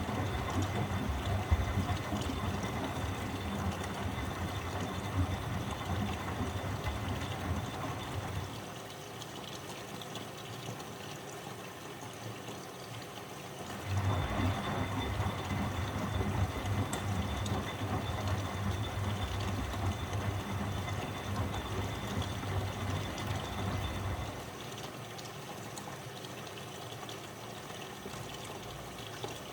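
Miele W761 front-loading washing machine in its wash rhythm: the motor turns the drum and water and laundry slosh inside for roughly eight to ten seconds at a time. Each run is followed by a pause of about five seconds, twice, and a new run starts at the very end.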